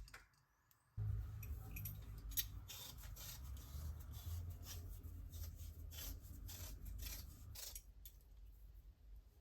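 Cutting during food preparation: a series of irregular, crisp strokes with low handling noise. It starts about a second in and fades away near the end.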